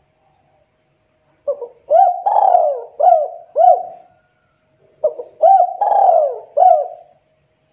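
Spotted dove (tekukur) cooing: two phrases of several rising-and-falling coos, each phrase about two seconds long, separated by a short pause.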